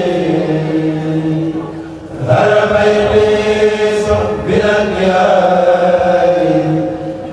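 A kourel group chanting a Mouride khassida together, unaccompanied, in long held lines. The voices fall away briefly about two seconds in at the end of a phrase, then come back in together with the next line.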